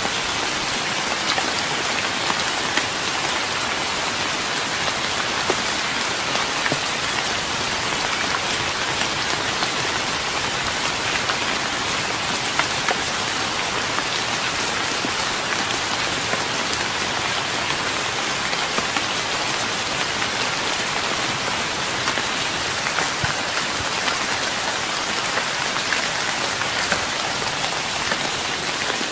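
Steady rain falling on a wooden deck, an even hiss with many individual drops ticking on the boards.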